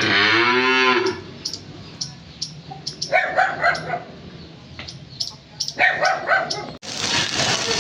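Cattle lowing: one drawn-out moo in the first second. A dog barks in short bursts around three and six seconds in. Near the end the sound cuts to steady heavy rain.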